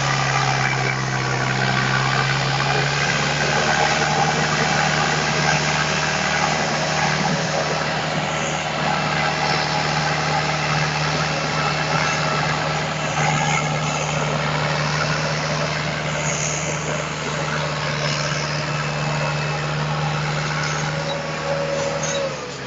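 Force Motors Balwan 550 tractor's diesel engine running steadily under load while hauling a trailer loaded with about 12 tons of sugarcane.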